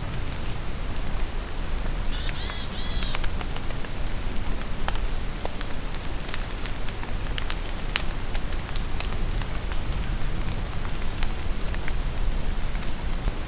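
Steady rain falling in a forest, with many drops ticking close by. A bird gives a short burst of rapid, high, curving notes about two seconds in, and faint high chirps come now and then.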